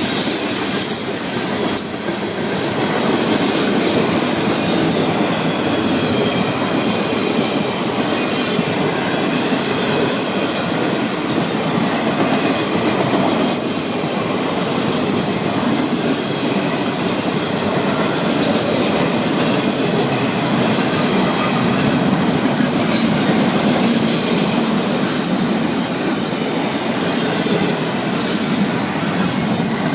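Florida East Coast Railway freight train rolling steadily past, a loud continuous rumble and clatter of steel wheels on rail. A brief high-pitched wheel squeal comes in about halfway through.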